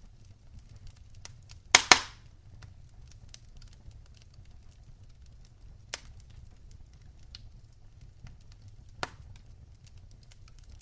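Wood fire burning in a fireplace: a low steady rumble of flame under many faint crackles, with a loud double pop about two seconds in and sharper single pops near six and nine seconds.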